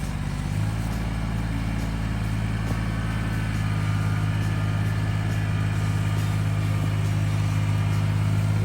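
An engine running steadily, its pitch and level stepping up about half a second in, then holding.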